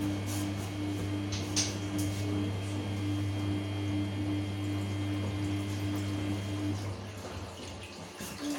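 Samsung P1271 washing machine running: a steady mechanical hum with water sounds, which stops about seven seconds in.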